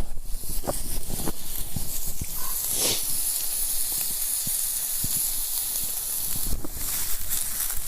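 Food sizzling in a small frying pan over a campfire: a steady high hiss with scattered sharp crackles.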